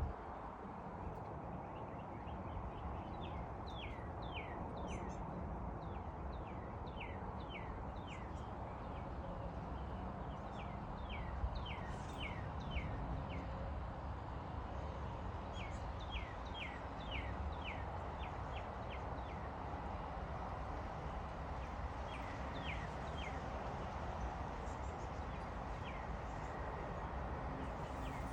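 Small birds chirping: short chirps that fall in pitch, coming in quick runs of several at a time, over a steady low background noise.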